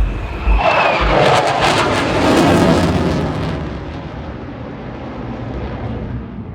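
Aircraft making a fast low flypast: a loud roar builds quickly, its pitch falls steeply as it passes, then fades away. Wind rumbles on the microphone near the start.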